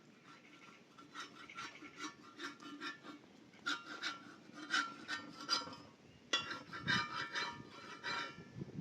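Rhythmic rasping strokes of a hand tool, about one or two a second, with a short break about six seconds in.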